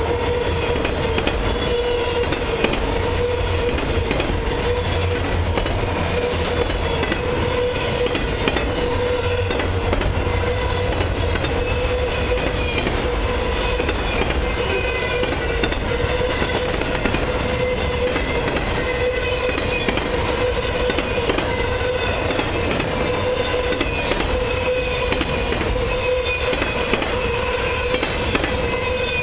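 Freight cars of a long CN autorack and mixed freight train rolling past: a steady rumble of steel wheels on rail with clickety-clack over the joints and a steady high tone throughout.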